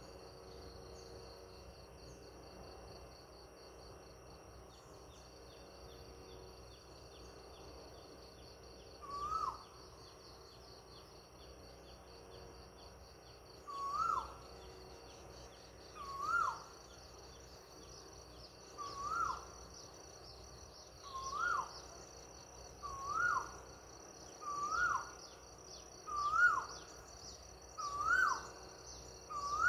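A bird repeating one short whistled call that rises then drops in pitch: once about nine seconds in, then regularly about every two seconds through the second half. Behind it runs a steady high insect trill that grows louder towards the end.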